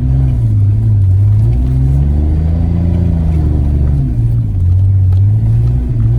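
Car engine revving, its deep note rising and falling several times as the car is driven hard.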